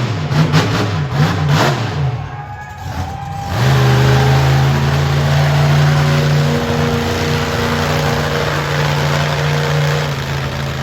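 Monster truck engine revving up and down in quick blips, then held at a steady high pitch for about seven seconds under heavy load.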